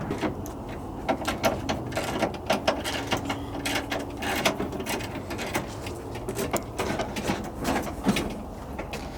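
Hand tools working a nut off: a ratchet wrench clicks in short, irregular runs, with metal clinks, as the last fastener holding the brake booster comes loose.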